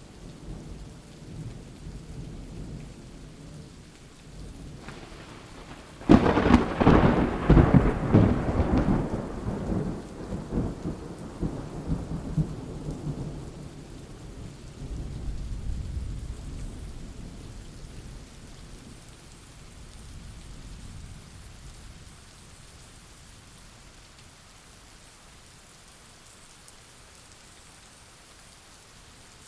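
Thunderstorm with rain: about six seconds in a thunderclap breaks with a sharp crack and rolls into a long rumble that fades away over about ten seconds, leaving the rain falling steadily and more quietly.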